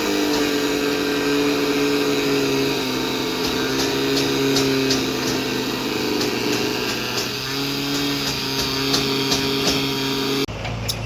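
Excavator engine running steadily at high revs after revving up, with a run of light clicks in the middle; the drone stops abruptly near the end.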